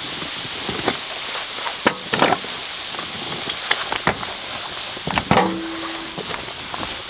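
Firewood crackling in a wood-burning stove: irregular sharp pops and snaps over a steady hiss.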